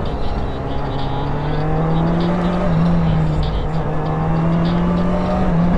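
Motorcycle engine running as the bike is ridden, its pitch climbing slowly under light acceleration and dipping briefly twice, over a steady rush of noise.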